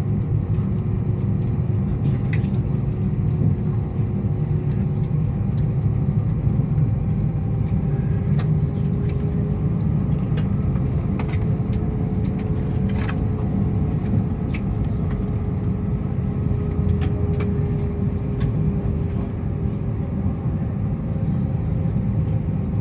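Steady low rumble and hum inside an Airbus A320's cabin, with a thin whine that drifts slightly in pitch, while the aircraft sits on the ground after landing. Scattered light clicks sound over it.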